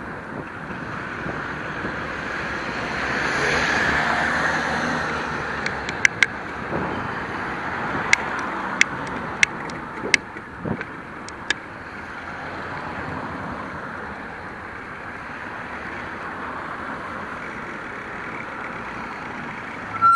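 Steady road-traffic noise around a moving bicycle. The noise swells and fades about four seconds in, as a vehicle passes. From about six to eleven seconds in comes an uneven run of about ten sharp clicks.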